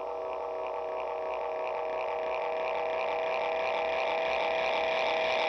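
Benson Delay guitar pedal self-oscillating with its hold engaged, played through a guitar amp: a droning, feedback-like build-up of echoes centred on one strong pitch. It grows steadily louder, with a faint quick pulsing in the upper range.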